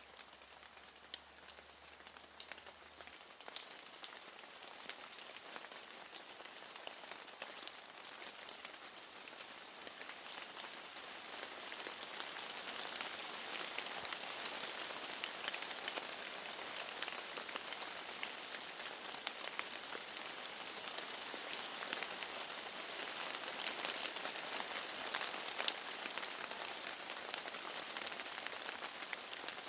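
Steady rain with many small drop ticks against a window, growing louder about a third of the way in.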